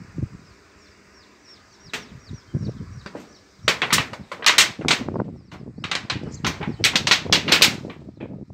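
A run of loud, irregular knocks and clattering, several a second, starting about three and a half seconds in, as from work on the roof being repaired; faint high bird chirps before it.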